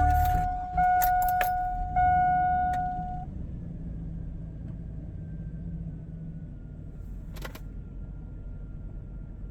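A 2002 Chevrolet Silverado just started and idling with a low steady hum, while a dashboard warning chime sounds in long repeated tones that stop about three seconds in. Keys rattle briefly about a second in, and there is a single sharp click near the end.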